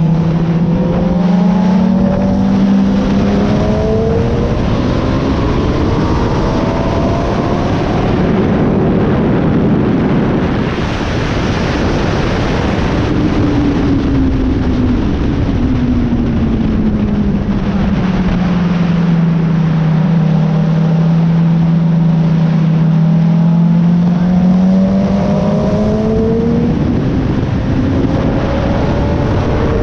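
Suzuki GSX-R sportbike's inline-four engine under hard track riding, heard onboard over heavy wind rush. The engine pitch climbs over the first several seconds, falls away about halfway through as the bike slows, holds low for a while, then climbs again near the end.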